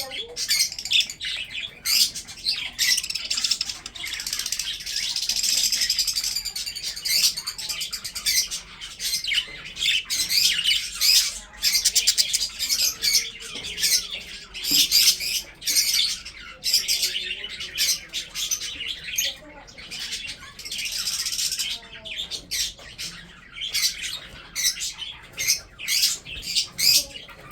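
Budgerigars chattering: a continuous run of rapid, high chirps, warbles and squawks.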